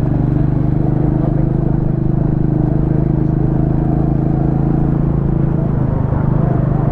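Motorcycle engine running at a steady, even pitch while riding, the bike heavily loaded with saddlebags, a tank bag and a pillion.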